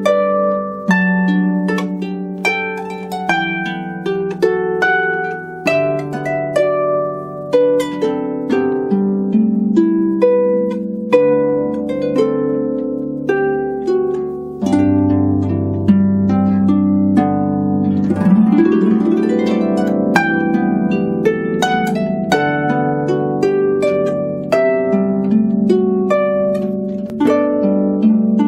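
Solo harp playing a melody over plucked bass notes, each note ringing on and dying away. About two-thirds of the way through there is a quick glissando sweep across the strings.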